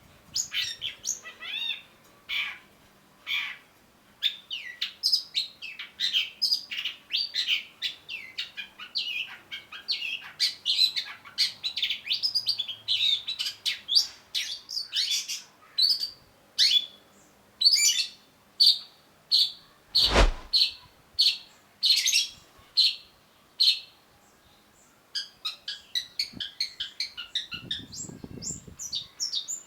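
Long-tailed shrike singing a fast, varied stream of sharp chirps and trills, with one loud thump about twenty seconds in.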